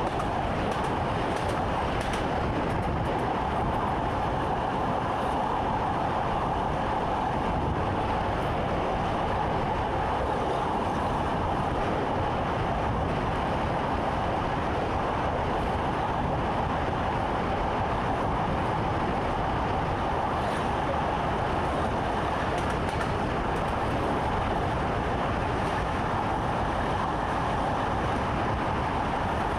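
Train running steadily, heard from inside the driver's cab: an even rumble of the moving train with a constant mid-pitched hum over it.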